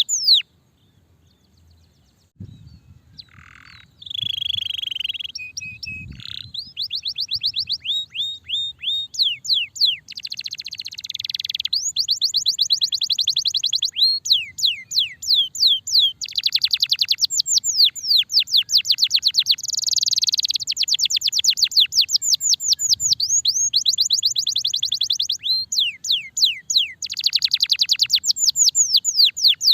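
Domestic canary singing a long song of rapid trills, strings of quick falling whistled notes, with a break of about two seconds near the start.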